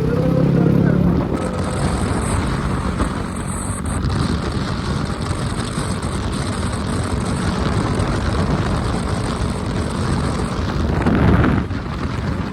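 A motorbike on the move: steady engine and road noise, with a short swell near the end.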